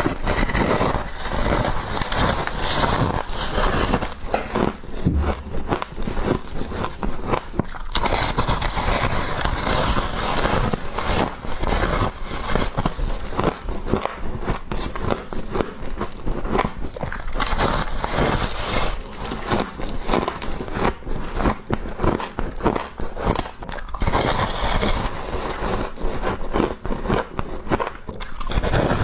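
Frost being bitten and chewed close to the microphone: a dense, unbroken run of crunches and crackles.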